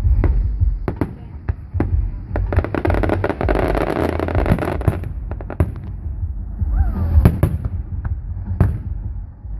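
Aerial fireworks going off: a steady run of sharp bangs, with a dense stretch of crackling about midway.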